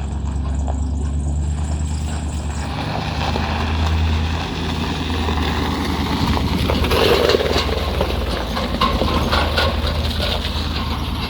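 Vehicle engine running steadily while driving, with rattling and clattering in the second half.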